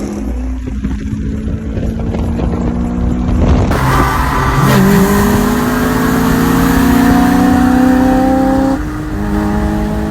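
A car engine accelerating hard, its pitch climbing steadily through a gear, then dropping suddenly at a gear change near the end and starting to climb again.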